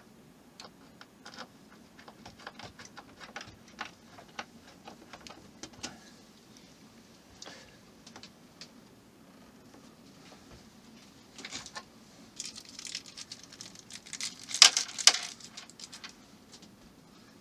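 Light clicks, taps and small rattles of tiny screws and plastic model-kit parts being handled on a work surface, with a louder burst of clatter near the end.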